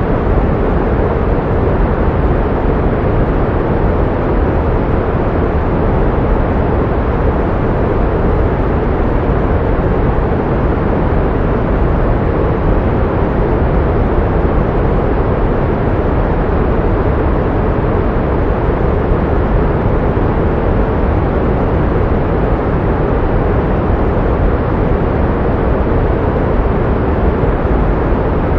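Steady pink noise for tinnitus masking: an even, unbroken hiss, heavier in the low end and softer in the highs, that does not change.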